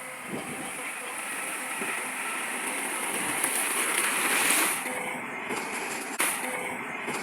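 Heavy earthmoving machinery working: a noisy, grinding rush that swells to its loudest about four and a half seconds in. The sound changes abruptly about five and again about six seconds in.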